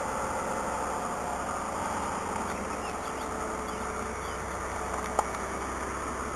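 Mazda 626 engine idling steadily during warm-up after a cold start, on a high-mileage car. A single short click about five seconds in.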